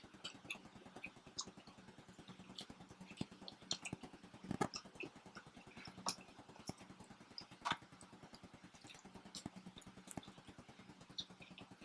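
Faint chewing and small mouth clicks of people eating pizza, with a louder knock about four and a half seconds in, over a low steady hum.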